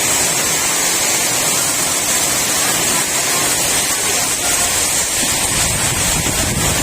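Heavy rain pouring down in a steady hiss, with wind gusting on the microphone from about five seconds in.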